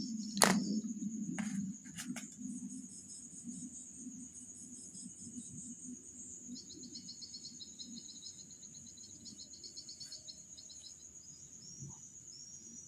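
Insects chirping in the background: a steady high trill with rapid pulsing chirps over it. A sharp knock about half a second in and two lighter clicks shortly after.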